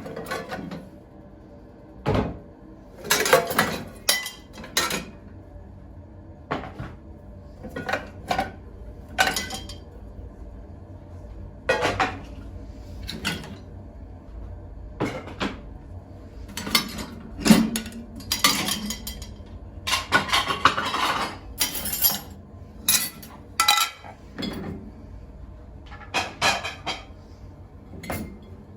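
Dishes and cutlery being handled: a run of separate clinks, clatters and knocks, some in quick clusters, with a longer rattling stretch a little past two-thirds of the way through.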